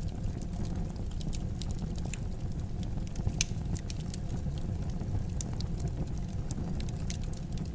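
Fire burning in a fireplace: a steady low rumble with scattered sharp crackles and pops, the strongest pop a little over three seconds in.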